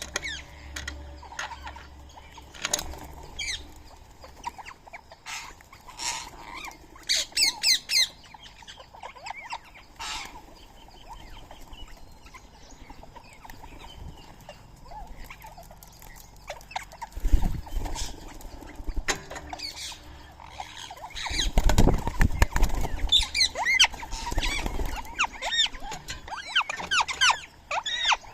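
Birds chirping and squawking in short, repeated calls, with flurries of wing flapping, about seventeen seconds in and again a few seconds later. The calls come thickest near the end.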